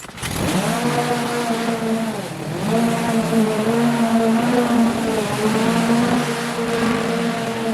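A small petrol engine starts suddenly, its pitch rising as it catches, then settles into a steady run, with a brief dip in speed about two seconds in.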